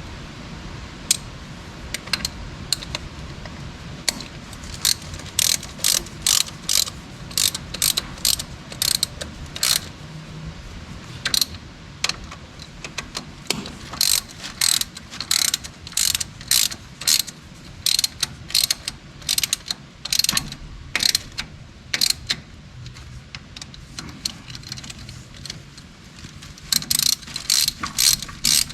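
Hand ratchet wrench clicking in runs of strokes, about two or three clicks a second, with short pauses between runs.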